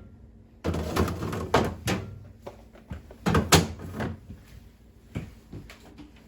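Refrigerator contents and shelf containers being handled and set in place: a run of knocks and clatter, loudest about three and a half seconds in, then a few lighter knocks.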